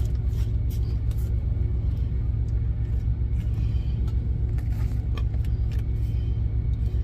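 Idling diesel engine of a semi truck, a steady low rumble, heard from inside the cab, with a few light clicks and taps of things being handled.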